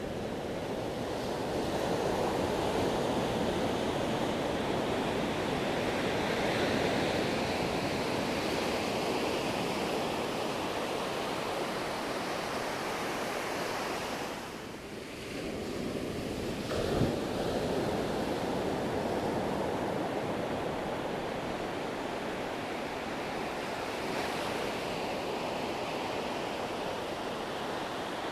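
Sea waves breaking and washing on the shore, a steady surf sound that eases briefly about halfway through. A short, sharp knock comes soon after the lull.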